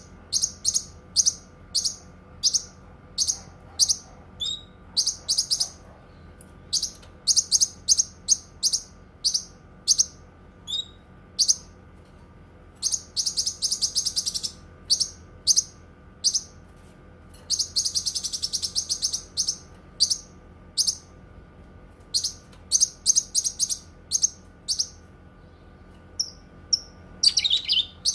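Cucak kinoi singing: a long run of short, sharp, high notes about two a second, broken twice by fast chattering trills.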